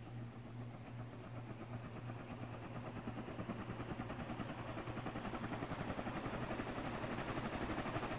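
Moss industrial ceiling fan with steel blades spinning up: a steady motor hum under a pulsing whoosh from the blades that grows steadily louder. It is a single-speed fan with a very torquey motor.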